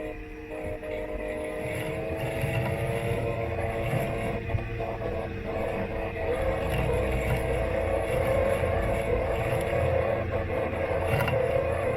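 Robot lawn mower running, heard from on its body: a steady electric-motor whine with a few steady pitches over a low rumble, growing louder over the first half.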